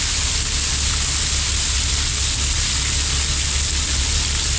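Steady rushing hiss of water, with a low steady hum beneath.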